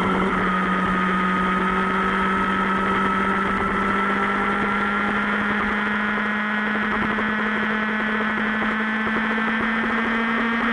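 Superbike engine running at a steady cruise, its note holding level and creeping slightly higher over the last few seconds.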